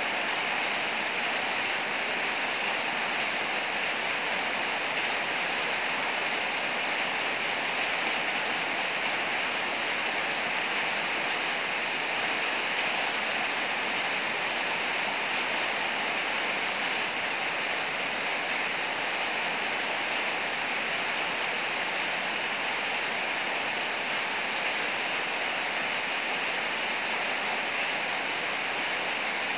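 Heavy rain pouring steadily, an even hiss that holds constant throughout.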